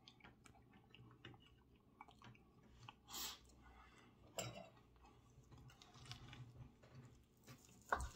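Quiet close-miked chewing of a mouthful of steak, with soft wet mouth clicks. Near the end there is a sharper knock as the knife and fork start cutting the steak on the wooden board.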